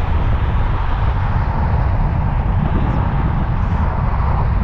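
Steady low rumble of a car travelling at freeway speed: tyre and engine noise with no breaks.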